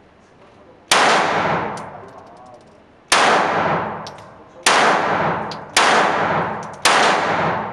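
Five Glock pistol shots at uneven intervals, the first about a second in, each sharp crack followed by a long ringing echo that dies away over a second or so.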